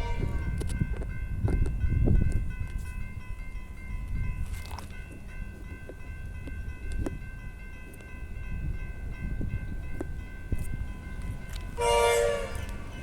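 Diesel locomotives BL26 and BL30, Australian National BL class with EMD two-stroke V16 engines, running through a level crossing with a steady heavy rumble and wheel clicks. A short horn blast sounds near the end.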